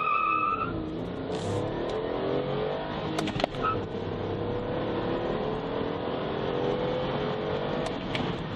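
2014 MINI Cooper's turbocharged three-cylinder engine accelerating flat out from a standstill, heard from inside the cabin. The tyres squeal briefly at launch. The revs climb, drop at an upshift about half a second in and again about three and a half seconds in, then rise steadily.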